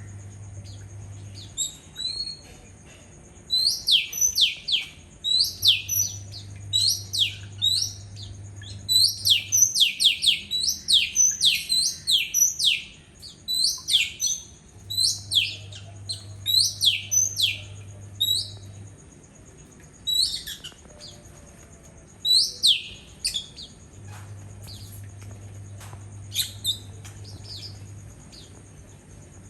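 Oriental magpie-robin calling: a rapid run of sharp, downward-sweeping whistled notes, densest in the first half and sparser later.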